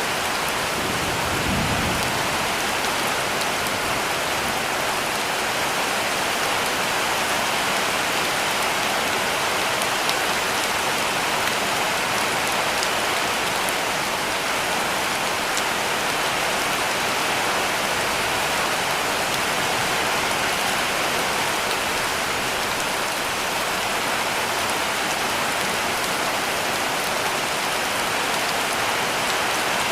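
Heavy rain falling steadily on a roof, with a brief low rumble about a second in.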